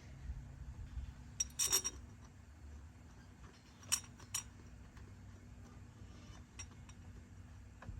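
Metal hand tools and engine parts clinking and clanking, a short cluster of sharp clinks about a second and a half in, two more around four seconds, and a few lighter ticks later, as the new injectors are fitted.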